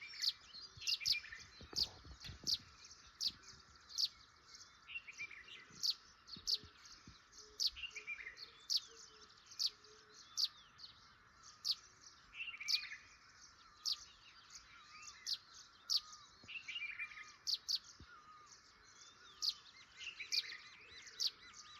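Songbirds chirping: short, sharp, high chirps repeat about once or twice a second over softer twittering.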